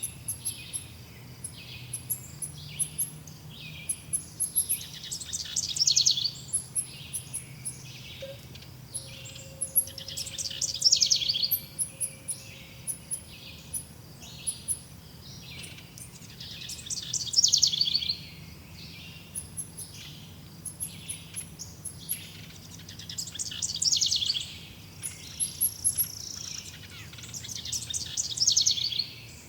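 Wild birds singing: one bird repeats a loud, rapid trilling phrase about every six seconds, with many shorter chirps between and faint high ticks throughout.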